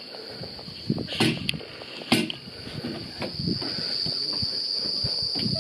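Insects shrilling in one steady high-pitched drone that grows louder about halfway through, with a few short knocks in the first couple of seconds.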